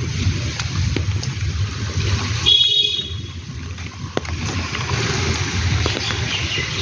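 Steady monsoon rain with a low rumble and scattered drips, and a brief high-pitched horn toot about two and a half seconds in.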